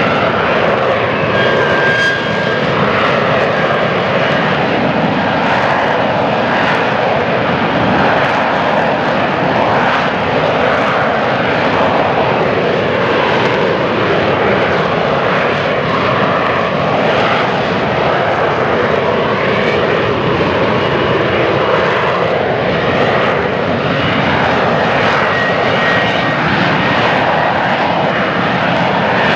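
F-35B Lightning II's Pratt & Whitney F135 jet engine at high thrust in its short-takeoff/vertical-landing hover mode, the lift fan and nozzles holding the jet up: a loud, steady jet roar whose tone drifts slowly up and down.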